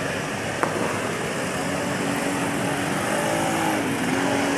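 Train passing at speed: a steady rush and rumble of wheels on the track, with one sharp click about half a second in.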